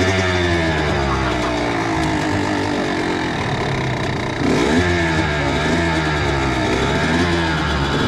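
Kawasaki KX85 single-cylinder two-stroke dirt bike engine revving up and down under riding, with a louder surge about four and a half seconds in.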